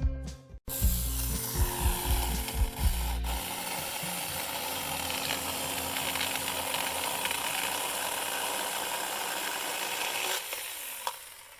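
SAKER mini electric chainsaw cutting through a small branch: a steady whirring, rasping cut that dies away about ten seconds in. Background music plays under the first few seconds.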